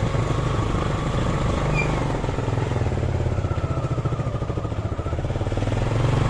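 Suzuki Gixer SF's single-cylinder engine running steadily with an even, rapid pulse.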